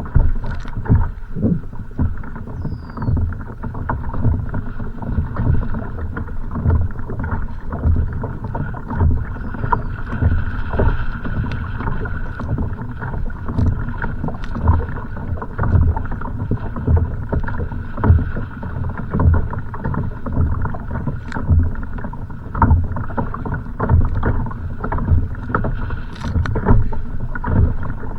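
Choppy water sloshing and slapping against a kayak's hull in irregular low thumps, with strong wind buffeting the microphone.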